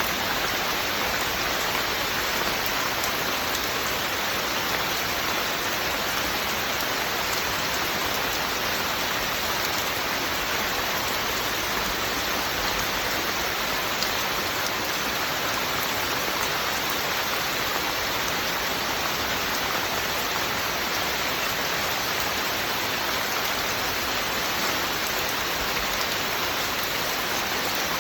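Steady heavy rain falling without a break, an even hiss of raindrops.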